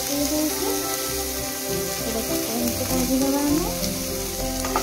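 Potato sticks and sliced onion sizzling as they fry in a little oil in a pan, over background music with a melody.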